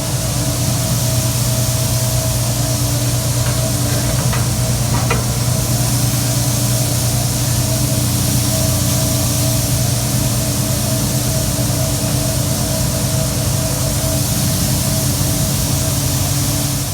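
Grain auger running with a steady mechanical hum, under a loud even hiss of grain pouring from a truck into it.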